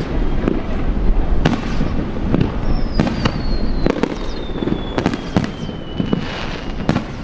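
Aerial fireworks going off: a run of sharp bangs about a second apart, with a thin whistle falling in pitch for a few seconds in the middle.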